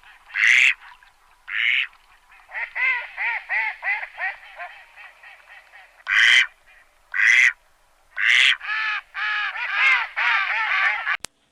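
Ducks quacking: several loud, harsh quacks alternating with two runs of quicker, shorter quacks, about three or four a second. The audio ends abruptly with a sharp click.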